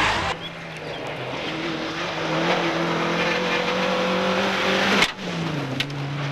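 Rally car engine running at high revs, its note held nearly steady and growing louder. A little after five seconds an abrupt cut brings in another rally car whose engine note falls in pitch.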